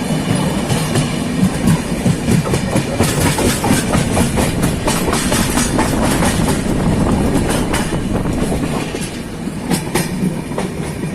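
Netravati Express passenger train running along the track: a steady rumble with wheels clicking over rail joints throughout.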